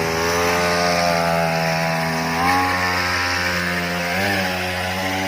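Small grass-cutter engine on a homemade four-wheeler running steadily under load, its pitch climbing about halfway through and again near the end as the throttle opens.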